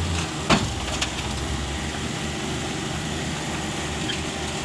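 Heavy diesel engine running at a steady idle with a pulsing low throb, and a sharp metallic clank about half a second in.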